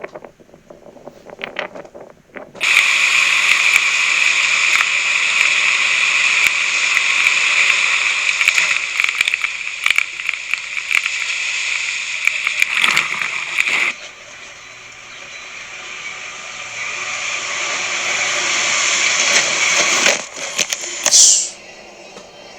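Loud rushing water, a steady hiss that starts suddenly, drops off abruptly about halfway through, then builds again, with a few knocks and a brief sharp sweep near the end.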